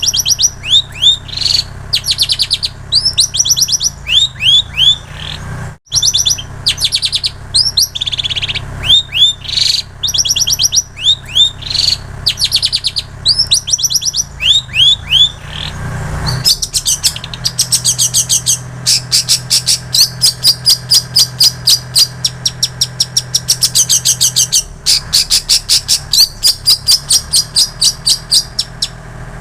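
Long-tailed shrike (cendet) singing a mimicked song of plain prinia (ciblek sawah) and canary: short sharp upslurred whistles repeated about twice a second, then from about halfway a fast unbroken run of high notes. A faint steady low hum lies underneath.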